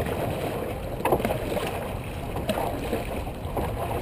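Dragon boat paddles catching and pulling through the water together, three or four splashy strokes at an even rhythm, over steady wind noise on the microphone.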